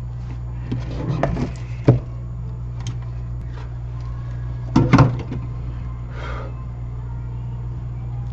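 A steady low hum with a few light clicks and knocks of small tools being handled on a workbench during board-level repair, and a brief soft hiss about six seconds in.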